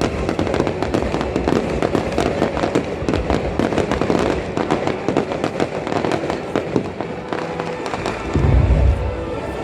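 Fireworks bursting in rapid succession, a dense run of crackles and pops, with a heavy deep boom near the end.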